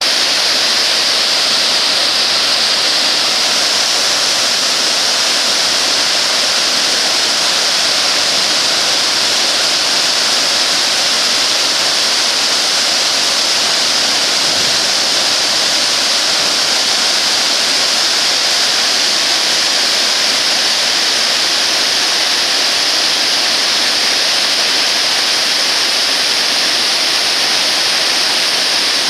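Waterfall at a dam: water pouring down in a loud, steady, unbroken hiss that never lets up.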